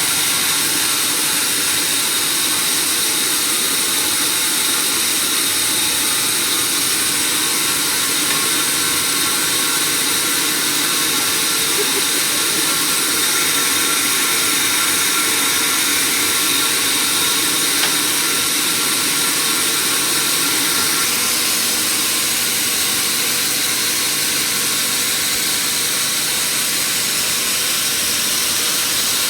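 Sawmill machinery running steadily, an even hiss with faint steady tones and no change in pitch or load.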